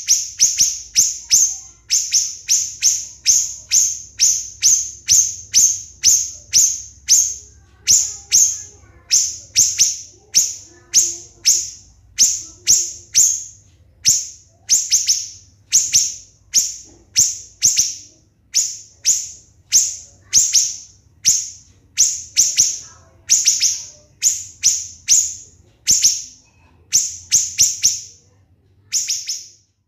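Siri-siri songbird singing a rapid, tightly packed series of short, shrill, very high notes. This is the close-set 'tembakan' (shot) phrasing that keepers use as a masteran to tutor other songbirds.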